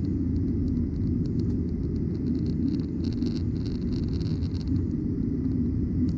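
Cabin noise of a Boeing 737-900ER in the climb after takeoff: a steady low rumble from its CFM56-7B turbofan engines and the airflow around the fuselage, heard from inside the cabin.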